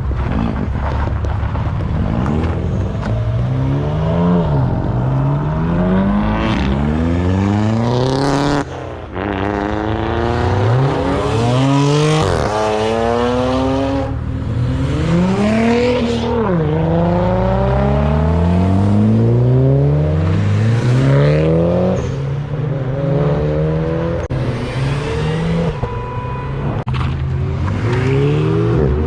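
Performance car exhausts under hard acceleration, the revs climbing again and again and dropping back between climbs, with a few sharp cracks.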